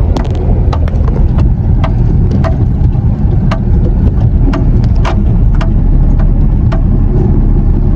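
Flatbed tow truck's engine running as the truck moves forward a short way, a loud steady low rumble with scattered sharp clicks and knocks.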